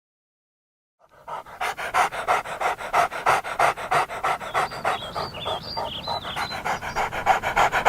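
A dog panting fast and rhythmically, about four breaths a second, starting about a second in. A few short high squeaks come over it midway.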